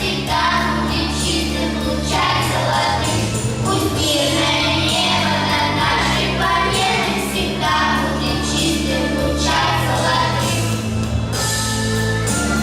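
A vocal ensemble singing in unison or harmony over instrumental accompaniment with a steady bass line.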